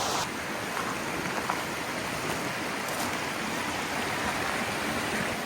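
Mountain valley stream flowing, a steady hiss of running water.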